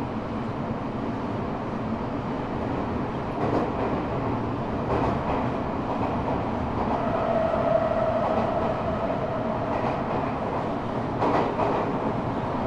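Eidan 6000-series subway car running between stations, heard from the car floor: steady wheel-and-rail rumble with a few sharp rail-joint clicks. A steady mid-pitched tone sounds for a few seconds midway.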